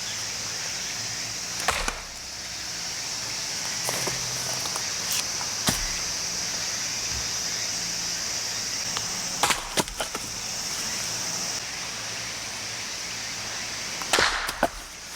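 Heavy hammer axe (splitting maul) striking and splitting firewood: sharp single knocks a few seconds apart, one of them doubled, the last followed by a brief clatter of split pieces. A steady high-pitched hiss runs underneath.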